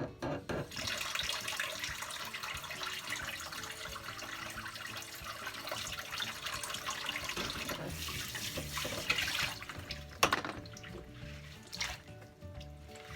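Kitchen tap running water into a sink, a steady rush that stops about nine seconds in, followed by two sharp knocks.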